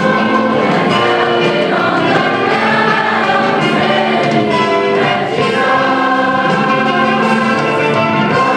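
A choir singing a song with instrumental accompaniment, held notes at a steady loudness throughout.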